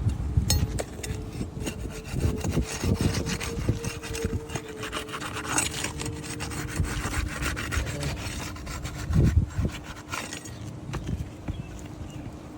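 Irregular scraping and rubbing of an old asphalt three-tab shingle being worked loose by hand, its sealed edge being broken free for removal, with small clicks and a louder bump about three-quarters of the way through.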